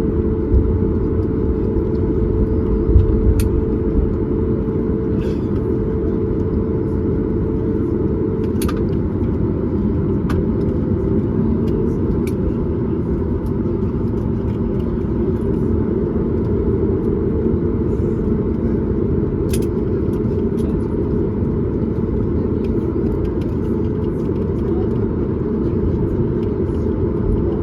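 Cabin noise of a Boeing 737 MAX 8 taxiing after landing: a steady rumble from the idling CFM LEAP-1B engines and the rolling landing gear, with a held hum that shifts a little higher partway through and a few light clicks and rattles.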